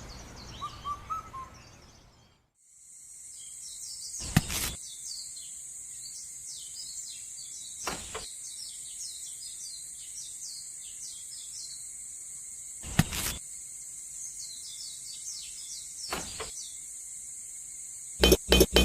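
Outdoor nature ambience: many quick, falling bird chirps over a steady high-pitched insect buzz, with four short whooshes spread through it. Rhythmic music cuts in at the very end.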